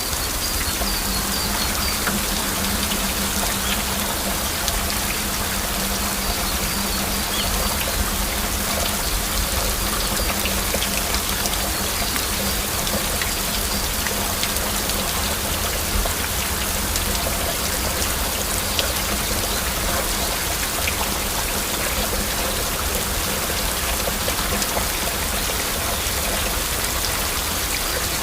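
Heavy rain falling steadily, with individual drops heard as a dense patter of ticks over the even hiss.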